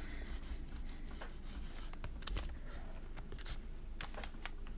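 Faint rubbing of a burnt sienna colouring stick on paper as it is worked along the page edges, with a few soft clicks and taps scattered through.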